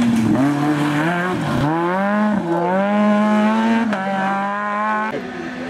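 Renault Clio rally car's engine accelerating hard, its pitch climbing and dropping briefly at each of several quick upshifts.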